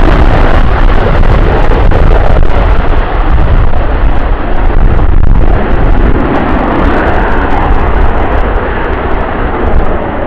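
Military jet engine at very high power, a heavy rumble laced with sharp crackle. The high-pitched hiss falls away after about three seconds and the noise then slowly fades as the jet moves off.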